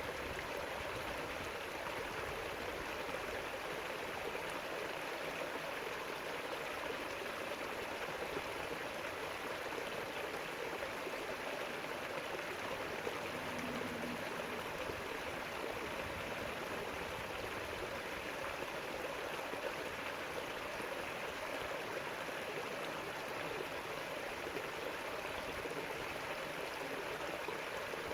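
A river flowing steadily over its bed, a continuous rushing of water.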